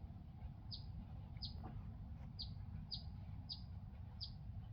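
A bird repeating a short, high, down-slurred chirp about once every second, six times, over a low steady rumble of background noise.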